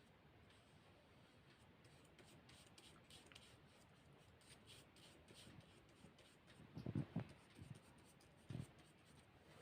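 Faint soft strokes and rubbing of a paintbrush on paper, with a few dull knocks around seven seconds in and once more near the end.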